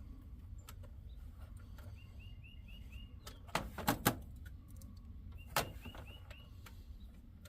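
A few sharp clicks and knocks, like tools on metal, about three and a half to four seconds in and again at five and a half seconds, over a small bird chirping twice in quick runs of four to six short, identical notes.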